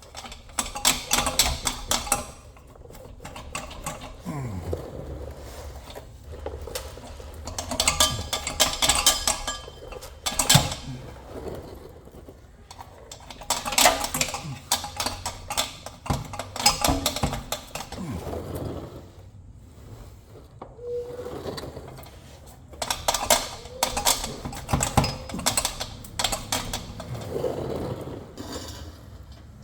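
Hand tools at work on a car's exhaust: several irregular bursts of rapid metallic clicking and clanking, with quieter gaps between.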